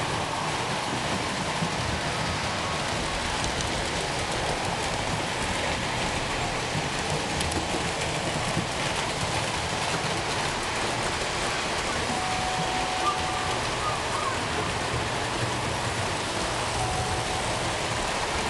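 HO and O gauge model trains running on a layout: a steady rushing, whirring noise with no breaks, with a few faint short tones in the second half.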